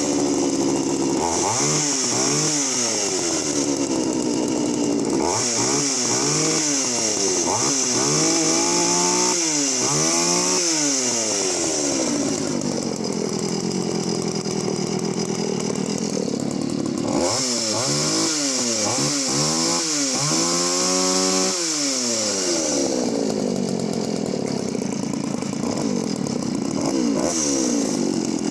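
Poulan 3400 56cc two-stroke chainsaw engine running and being revved in repeated short blips, with one longer held rev about halfway through and steadier running near the end. A torquey but aggressive-sounding engine.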